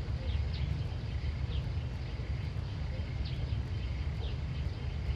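Outdoor countryside ambience: a steady low rumble throughout, with birds giving short, high, falling chirps about once a second.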